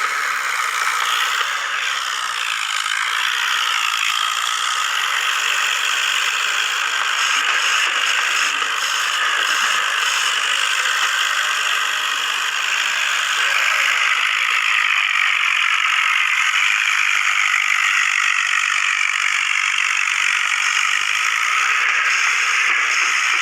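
Tractor engines running, heard as a steady clattering, rattling mechanical noise with almost no bass.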